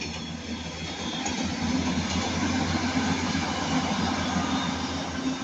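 Northern Class 195 three-car diesel multiple unit running along the line, its engine and wheels growing louder over the first two seconds and then holding steady.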